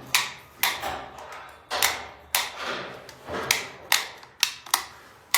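Wall light switch being flipped on and off over and over, a sharp click roughly twice a second at uneven spacing, while testing whether switching the light trips the leakage breaker.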